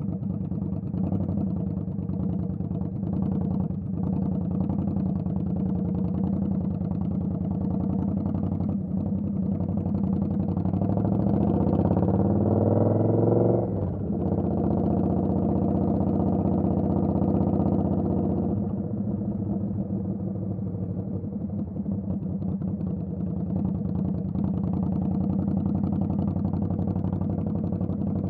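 Indian Scout Bobber's V-twin engine running steadily under way. About halfway through it revs up in a rising sweep, then drops suddenly. It runs steadily again and eases off a few seconds later.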